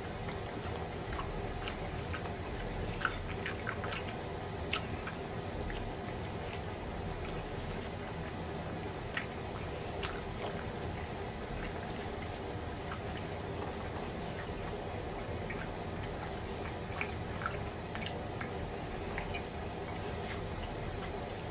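Wet chewing and lip-smacking of a person eating gravy-covered pork chop by hand, with many short sharp mouth clicks scattered through, over a steady low background noise.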